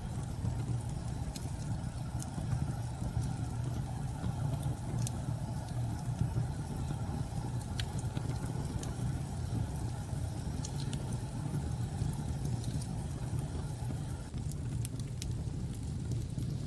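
Steady low rumble of storm wind, with scattered faint crackles from a wood fire. About fourteen seconds in, the higher part of the hiss drops away.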